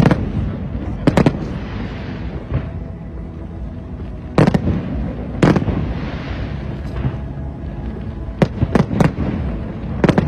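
Fireworks display: sharp bangs of shells bursting at uneven intervals, some in quick pairs, with crackling between them.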